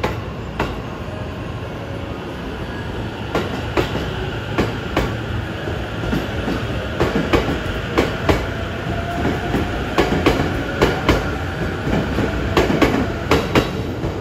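JR East E257 series 5500 electric multiple unit pulling out and gathering speed: its wheels clack over rail joints more and more often over a steady rumble, with a faint whine slowly rising in pitch.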